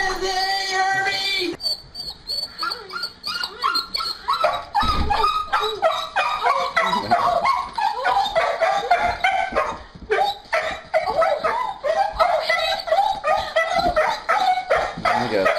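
A dog whining and crying excitedly in many short, high-pitched calls in quick succession, the sound of a dog greeting its owner home.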